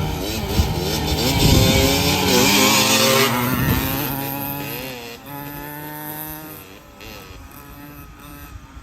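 Kawasaki KMX 125 two-stroke dirt bike engine revving as the bike rides past. It is loudest a couple of seconds in, then fades away as the bike moves off.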